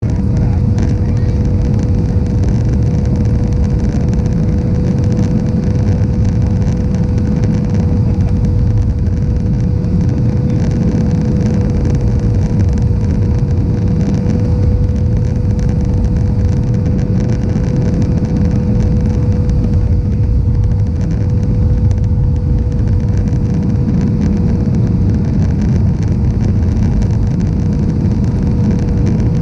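Airbus A320-200 airliner in flight: a loud, steady rumble of engines and airflow with one steady tone held above it, unchanging.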